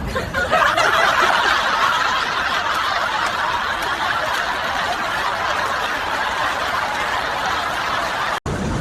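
Laughter, dense and continuous for about eight seconds, cutting off abruptly near the end.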